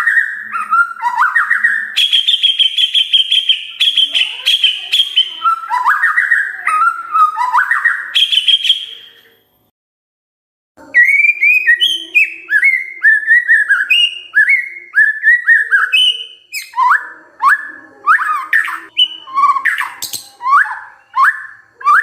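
White-rumped shama (murai batu) song, of the kind played as a lure to get caged shamas singing: rapid whistled and chattering phrases, with a high trilled passage. After a break of about a second near the middle comes a run of repeated downward-sliding whistles.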